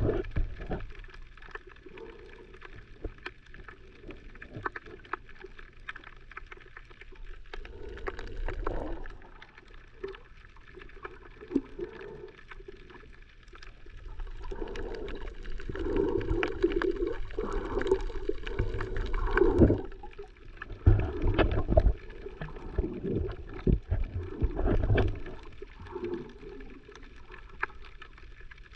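Water sloshing and gurgling around a snorkeler's camera, with scattered knocks and clicks; it grows louder and more agitated through the middle stretch.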